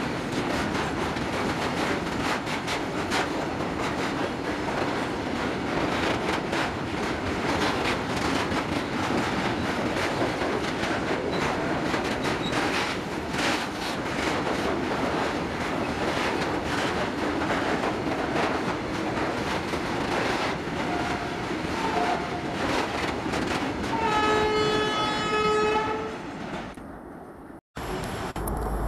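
Freight train of tank wagons rolling past: a steady rumble of steel wheels with repeated clicks over the rail joints. A train horn sounds for about two seconds near the end, and then the sound fades out.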